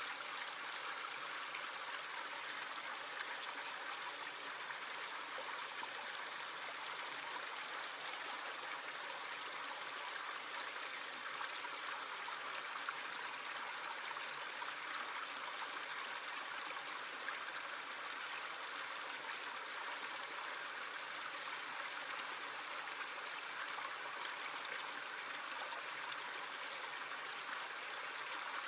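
Brook running: a steady, even rush of flowing water.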